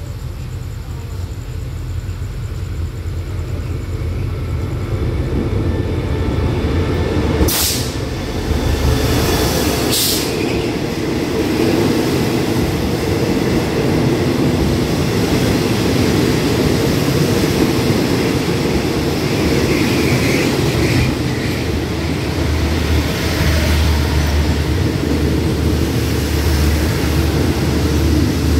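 Diesel-electric locomotive QSY 5211 and its express train coming into the station. The rumble builds as it draws level, with two brief sharp sounds about two and a half seconds apart. Then the passenger carriages roll past with a steady wheel rumble and clatter as the train slows to stop.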